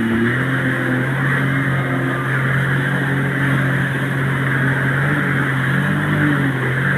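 Motorboat engine running at a steady speed with a constant rushing noise over it; the engine pitch shifts briefly about six seconds in.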